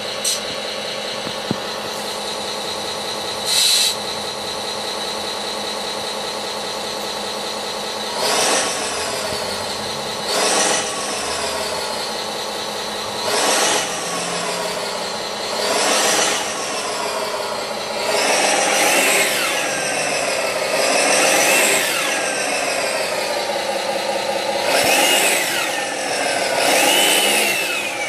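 An RC truck's electronic sound module plays a truck engine through a small speaker: a steady idle with a short burst of noise about four seconds in. From about eight seconds in it revs every two to three seconds. From about eighteen seconds the revs come longer and closer together, each followed by a falling turbo whistle.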